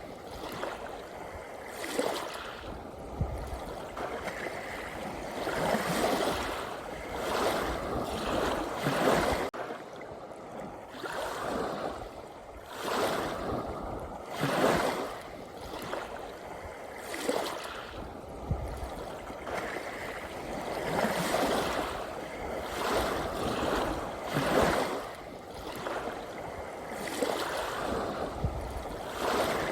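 Ocean waves washing in and breaking, swelling and falling away in irregular surges every few seconds.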